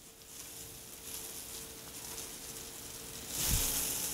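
Breaded veal cutlets sizzling in butter and olive oil in a skillet as a spatula works them, frying on after the burner has been turned off. The sizzle swells with a soft knock about three and a half seconds in.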